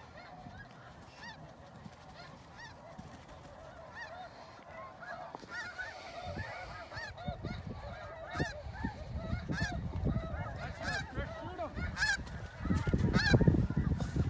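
A flock of geese honking, many short calls overlapping, sparse at first and growing busier and louder through the second half, over a low rustle that swells near the end.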